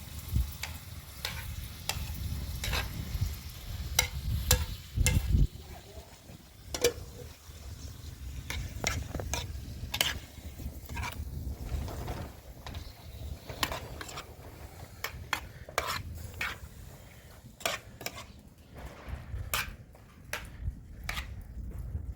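A utensil stirring food in a cooking pot, with many irregular clicks and scrapes against the pot. A low rumble runs underneath.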